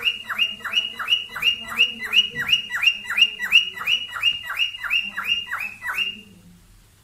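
Cockatiel giving a mating call: a fast, even series of falling chirps, about three a second, stopping abruptly about six seconds in.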